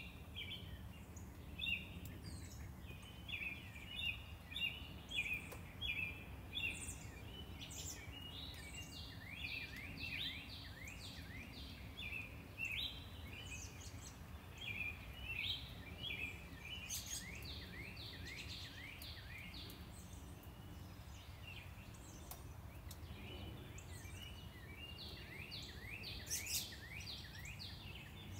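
Birds singing in several runs of quick, repeated high chirping notes with short pauses between, over a steady low rumble of traffic.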